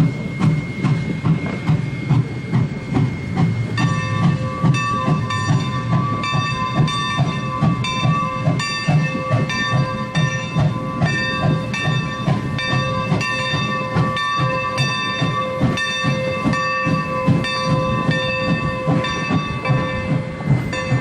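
Steam locomotive working under way, its exhaust chuffing in a steady beat of about two a second. About four seconds in, a set of higher ringing tones joins and pulses along with the beat.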